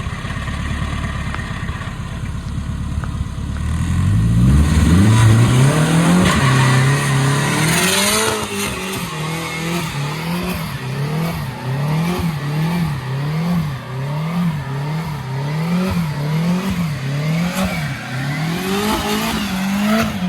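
Honda K-series four-cylinder engine in a pickup truck running steadily, then revved up hard over about four seconds. After that it is held high with the throttle pumped up and down about once a second.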